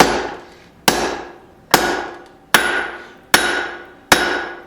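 Blacksmith's hand hammer striking hot steel on an anvil while forging a tong half: six evenly spaced blows a little under a second apart, each ringing out and fading before the next.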